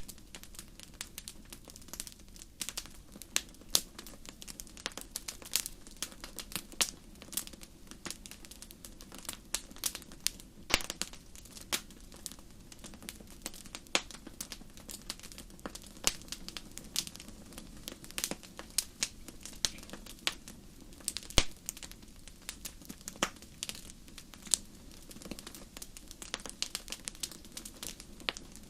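Wood fire crackling, with many irregular sharp pops and snaps over a low, steady hiss of burning.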